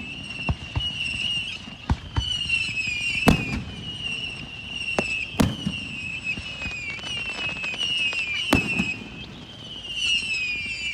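Fireworks: a string of high-pitched whistles, each falling slightly in pitch, broken by sharp bangs, the loudest a little over three seconds in, at about five and a half seconds and at about eight and a half seconds.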